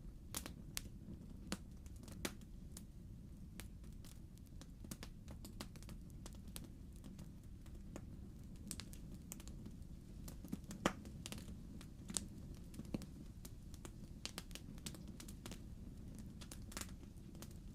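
Wood fire burning in a fireplace: logs crackling with irregular sharp pops and snaps over a low, steady rumble of the flames.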